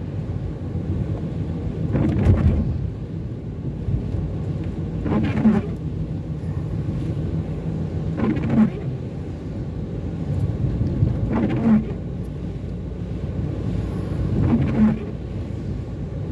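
Car windscreen wiper blades sweeping across the wet glass five times, about once every three seconds, each pass a short blade noise, over the steady rumble of the car driving in the rain.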